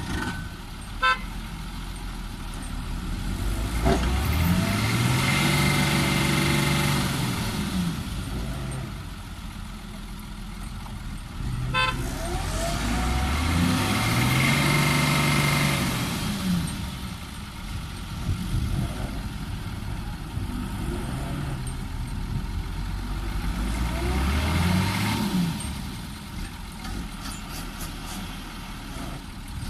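Heavy diesel engine revving up hard and easing back three times, each surge lasting a few seconds, as it works under load to free a dump truck stuck in mud. A short rattle sounds about a second in and again at the start of the second surge.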